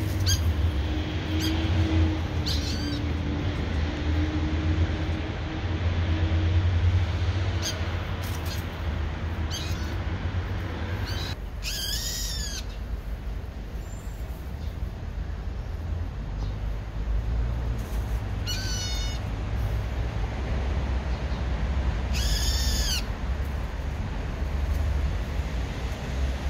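Brown-eared bulbul calling: a few shrill, arching calls, loudest about 12 and 22 seconds in, and a quicker run of notes near 18 seconds, over a steady low rumble.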